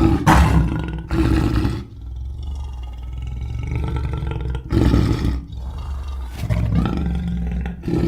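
Video-game Tyrannosaurus rex roar sound effects: several loud roars over a steady low rumble, coming right at the start, about a second in, about five seconds in, and again from about six and a half seconds to the end.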